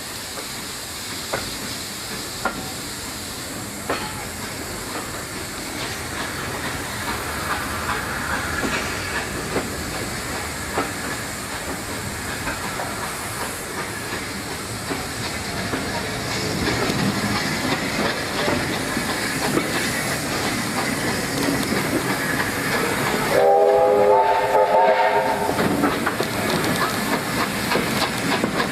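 Steam locomotive drawing closer, its hiss and working noise growing steadily louder with scattered clicks. A short steam whistle sounds about three-quarters of the way through, and quick regular beats follow near the end.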